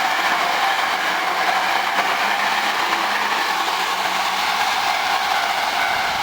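Hankyu electric commuter train running past at speed without stopping, a steady loud rolling rush of wheels on rail that eases slightly toward the end.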